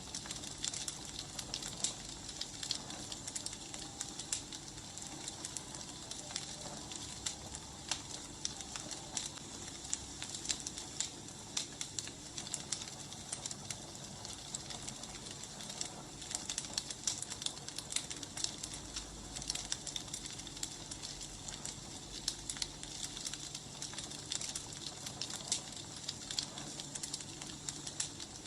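Burning firewood crackling: a steady hiss with many small irregular pops and snaps.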